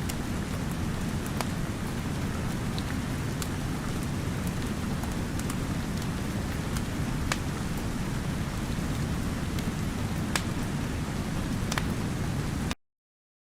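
Steady heavy rain with a deep rumble, and occasional sharp crackles from a wood fire in a fireplace. The sound cuts off suddenly near the end.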